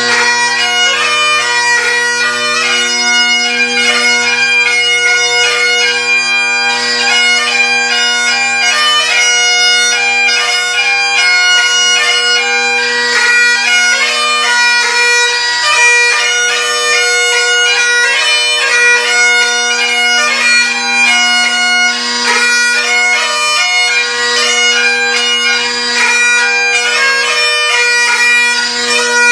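MacLellan Revelation Great Highland bagpipes, fitted with a Shepherd chanter, Chesney chanter reed and Kinnaird Evolution drone reeds, playing a tune: the drones hold a steady low chord while the chanter plays a melody of quickly changing notes above.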